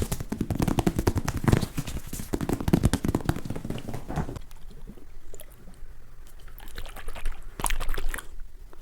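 Rapid, close-up ASMR trigger sounds: fast clicking and tapping for about four seconds, then sparse faint clicks, with a short louder burst near the end.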